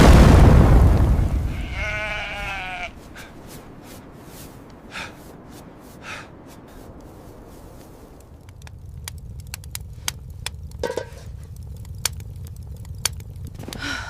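A loud sudden boom at the start that fades away over about two seconds, then a sheep bleating once, a wavering call about two seconds in, with two fainter short calls a few seconds later. In the second half, a steady low rumble with scattered sharp clicks.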